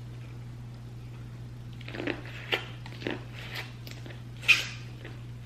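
A person biting and chewing seafood-boil food close to the microphone: about five short bites and chews starting about two seconds in, the loudest a little before the end.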